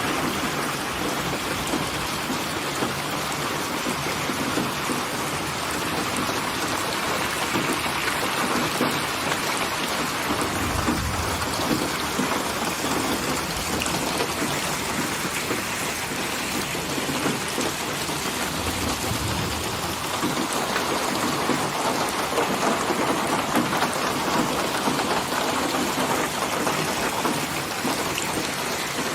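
Steady heavy rain falling, with two low rolls of distant thunder, about ten seconds in and again near twenty seconds.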